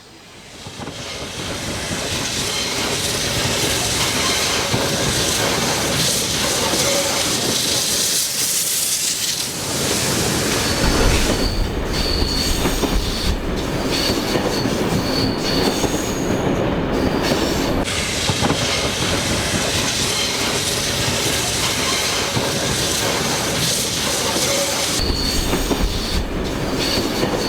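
A train rolling past close by: wheels on the rails with a steady rumble and clatter that builds up over the first couple of seconds. A high wheel squeal comes and goes from about a third of the way in.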